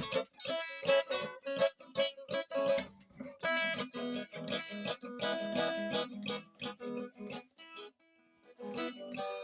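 Acoustic guitar strummed and plucked in quick repeated chord strokes, with a brief pause about eight seconds in.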